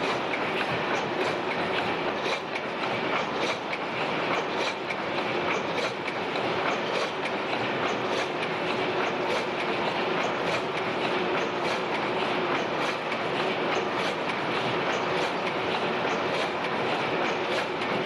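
Four 400 HP Snow tandem natural-gas pumping engines running together under full load: a steady, rhythmic mechanical clatter over a continuous hum.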